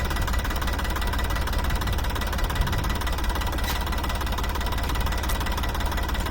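Diesel tractor engine running steadily with an even, rapid pulse.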